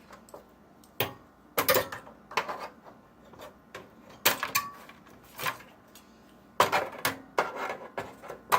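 Irregular knocks and clatters of a computer case fan being pulled loose from its rubber mounts and the metal case being handled, about a dozen sharp hits spread unevenly.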